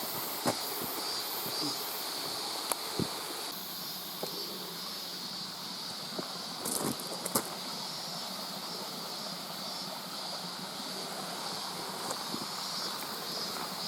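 Steady rush of water running over the rocks of a stream-bed trail, with scattered sharp clicks and knocks.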